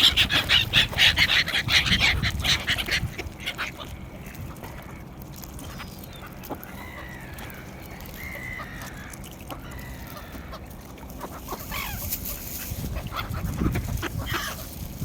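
A flock of birds calling. Rapid, crowded calls are loud for the first three seconds, then give way to quieter scattered calls, with the calling picking up again near the end.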